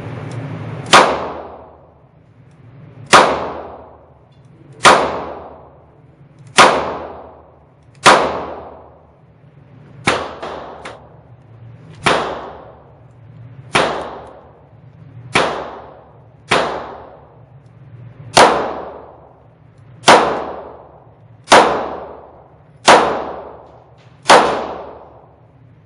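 A string of about fifteen handgun shots, one every second and a half or so, each a sharp crack with a long echoing tail.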